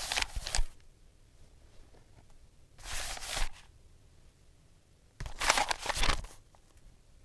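Cat hissing defensively at a dog: three short hisses, each under a second, about two and a half seconds apart.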